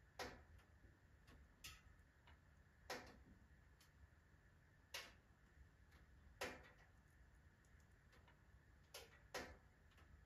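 Firewood crackling in a wood-burning stove: quiet, irregular sharp pops, about seven in ten seconds, two of them close together near the end, over a faint steady hiss.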